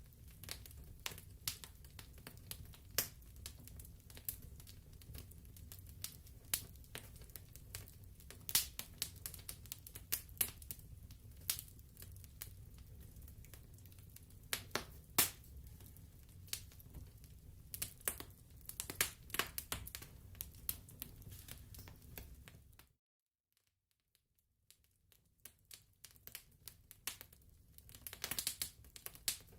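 Wood fire crackling in a fireplace: irregular sharp pops and snaps over a low rumble. The sound cuts out suddenly about three-quarters through for a second or two, then the crackling fades back in.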